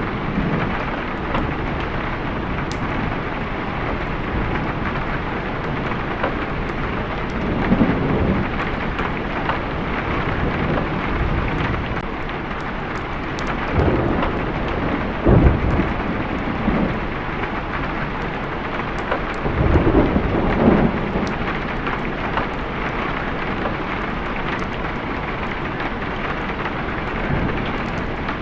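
Steady heavy rain with rolling thunder that rumbles up several times, the loudest peal about halfway through.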